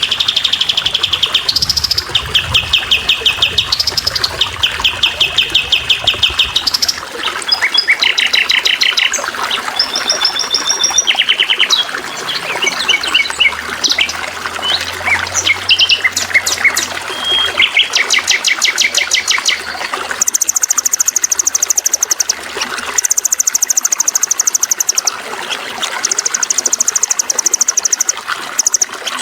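Songbirds singing in rapid trills of quickly repeated notes, phrase after phrase; from about two-thirds of the way in the trills are higher-pitched. Beneath them runs a steady trickle of water.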